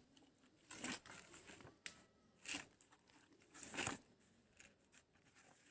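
Dry coating mix of flour, cornflour and spice powder being stirred in a bowl: a few short, faint scraping rustles with a small click between them.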